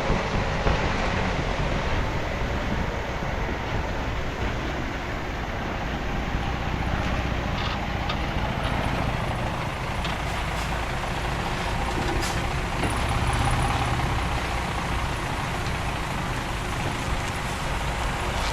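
Diesel engines of heavy earthmoving machinery running steadily, with a few light knocks around the middle.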